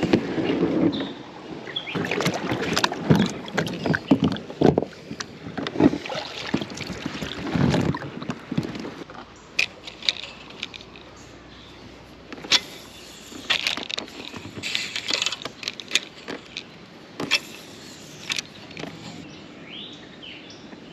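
Irregular knocks, bumps and splashing from a plastic sit-on-top fishing kayak and its paddle moving on the water. The sounds are busiest in the first half and again around the middle, with a quieter stretch in between.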